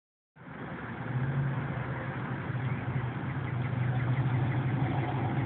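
A vehicle engine idling steadily, a low even hum that begins a moment in.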